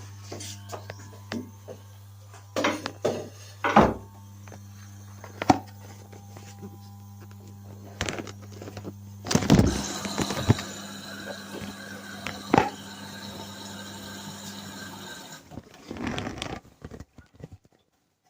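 Whirlpool washing machine running: a steady motor hum with scattered knocks and clunks as the drum turns, the hum stopping about fifteen seconds in, followed by a few more clunks.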